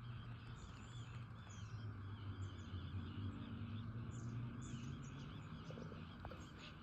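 Many faint bird calls and chirps from birds on and around the water, overlapping and scattered throughout, over a low steady hum.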